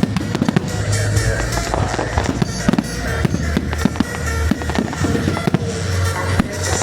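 Fireworks going off in rapid, dense bangs and crackles, with music playing alongside.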